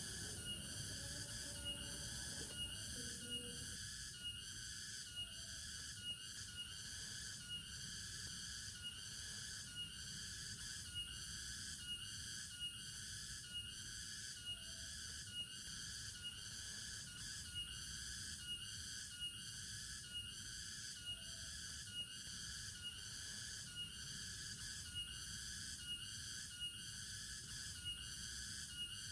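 Steady high-pitched chirping in an even rhythm of about two pulses a second, over a low steady rumble, with a few faint short low calls.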